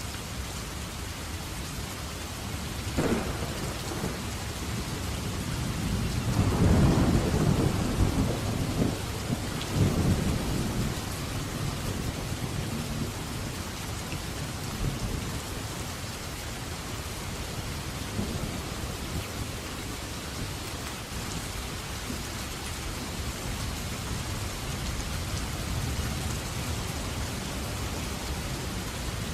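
Steady heavy rain, with a sharp crack of thunder about three seconds in followed by a long low rumble of thunder that swells and fades over the next several seconds.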